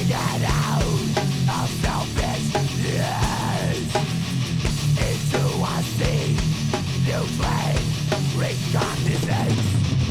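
Heavy metal recording: distorted electric guitars and drums playing with no vocals, a high melodic line sliding up and down in pitch over a dense low riff.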